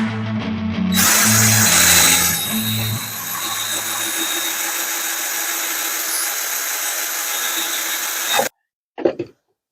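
Electric drill running under load, boring holes through a bushing to make a grease groove. It starts about a second in, runs steadily, and cuts off sharply near the end, followed by one short noise.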